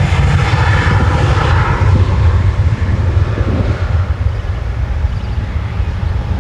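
Two CFM56-7B26 turbofan engines of a Boeing 737-800 freighter at takeoff power: a deep, loud rumble with a hiss on top. The hiss fades after about two seconds and the whole sound slowly drops away as the jet departs.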